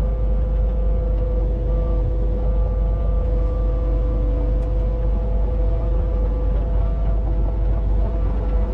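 Kubota KX61-2 mini excavator's diesel engine running steadily under work, a deep rumble with a steady whine over it.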